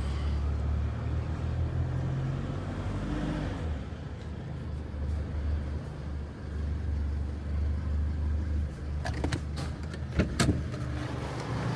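Car engine and road noise heard from inside the cabin while driving, a steady low rumble. A few sharp clicks or knocks sound near the end.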